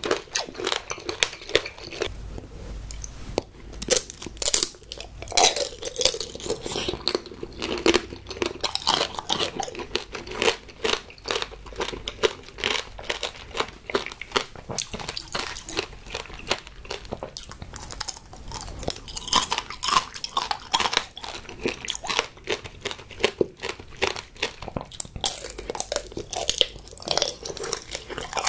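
Close-miked chewing and crunching of tanghulu, candied fruit whose hard sugar shell cracks between the teeth in many quick, irregular crisp snaps.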